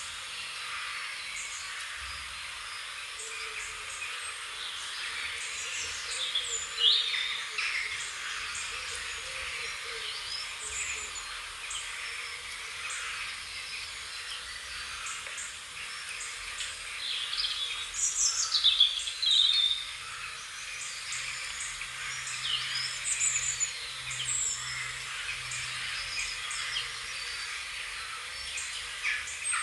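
Several wild birds singing and chirping over a steady background hiss, with louder calls about seven seconds in and again around eighteen to twenty seconds in.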